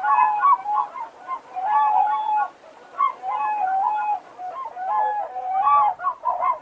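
Common cranes trumpeting: several birds calling over one another in bouts of loud, rolling calls, with short pauses between bouts.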